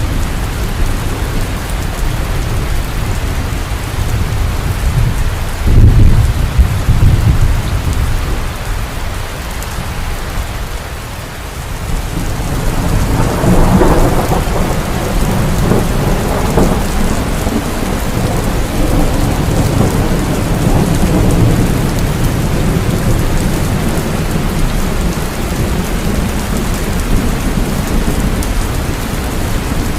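Heavy rain falling steadily, with thunder: a low rumble about six seconds in, then a longer rolling rumble that builds around thirteen seconds and slowly trails off.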